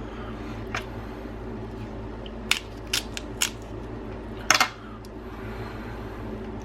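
Crab shell being cracked and snapped apart by hand: about five sharp cracks, the loudest a little past the middle, over a steady low hum.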